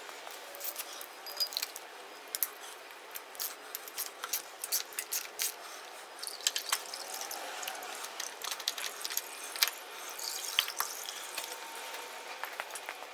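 Motorcycle oil filter being unscrewed and pulled off: many small irregular clicks and scrapes of the filter and wrench, with oil dripping and running out.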